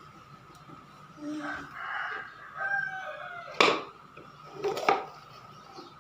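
Battery-powered toy robot cat playing its electronic meow sound, pitched gliding calls lasting about two seconds, followed by a few sharp clicks or knocks.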